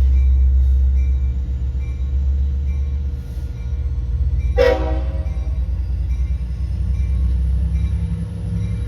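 Diesel dual-mode locomotive at the head of a passenger train rumbling at a standstill, its engine note starting to pulse about a third of the way in as it gets ready to depart. A single short horn toot sounds about halfway through. A faint high ring repeats about twice a second throughout.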